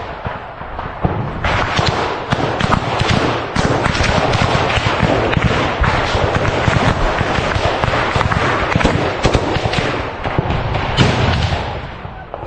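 Dense, continuous small-arms gunfire: many overlapping shots in rapid succession, with a slightly thinner stretch about a second in.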